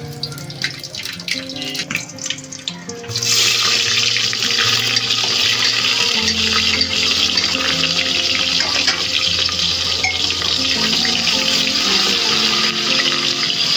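A kitchen tap is turned on about three seconds in and water runs steadily into a sink, after a few small drips and clinks. Soft background music plays throughout.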